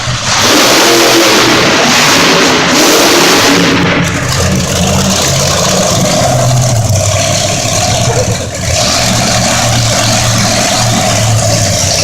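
Monster truck engine revving loudly, its pitch climbing and dropping as the throttle is worked, with a heavy rushing noise over it for the first few seconds.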